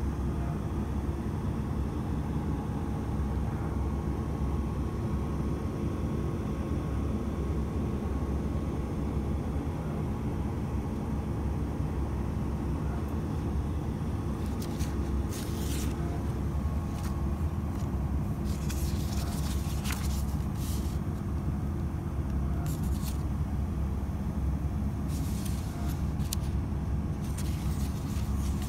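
Cabin noise inside a Tsugaru Railway diesel railcar: a steady low rumble with faint steady tones. Scattered sharp clicks come in during the second half.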